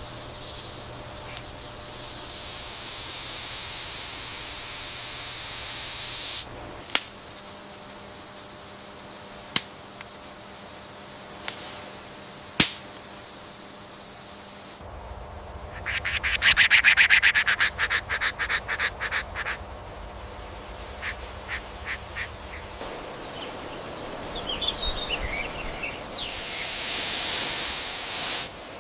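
A bird calling in a rapid chattering series, followed later by a few short chirps. Two loud bursts of hissing noise and a few sharp clicks come before and after the calls.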